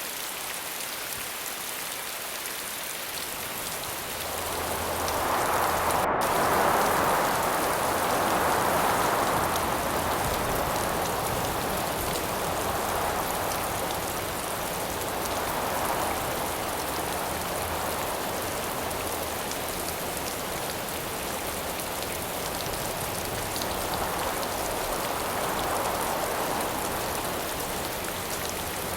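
Steady rain falling, with gusts of wind that swell and die away three times, the strongest gust about five seconds in.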